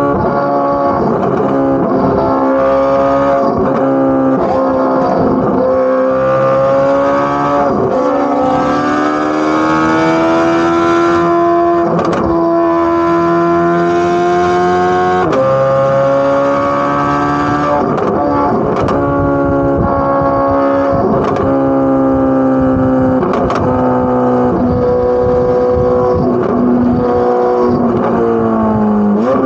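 Corvette C8 Z06's naturally aspirated 5.5-litre flat-plane-crank V8 exhaust running at high revs, holding a high, fairly steady pitch that climbs slowly and drops back a few times, with sharp cracks scattered throughout.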